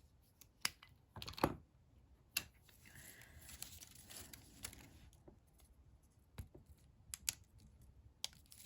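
Scattered light clicks and taps with soft rustling of paper and card as adhesive glue dots are handled and pressed onto a handmade card.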